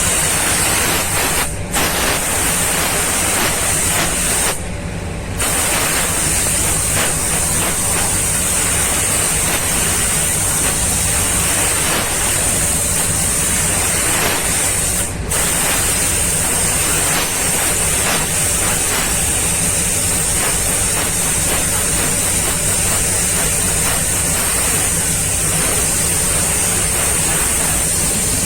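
Compressed-air paint spray gun spraying paint onto a car body, a steady loud hiss over a steady low hum. The hiss breaks off briefly three times: about a second and a half in, for most of a second around five seconds in, and around fifteen seconds in.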